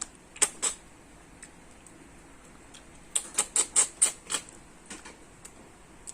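Close-miked eating sounds: wet mouth smacks and chewing clicks, two about half a second in, then a quick run of about seven a few seconds later.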